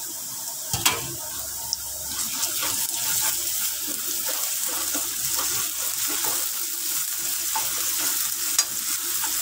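Chopped onions and spices sizzling in hot oil in a kadai, stirred with a steel ladle that scrapes the pan in repeated short strokes. A sharp knock of the ladle against the pan comes about a second in.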